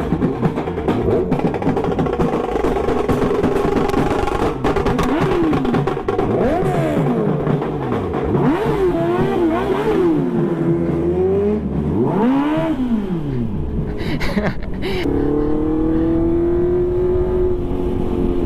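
Kawasaki ZX-10R inline-four sportbike with a loud exhaust being revved. The pitch climbs and falls in a run of quick blips through the middle, then holds a long high note near the end that slowly eases off.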